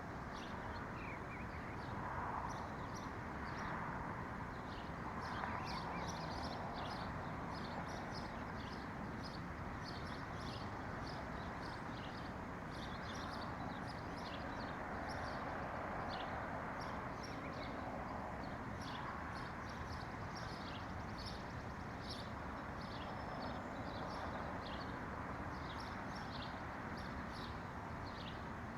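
Small birds chirping, many short high calls coming thick and fast, over a steady low rushing background noise.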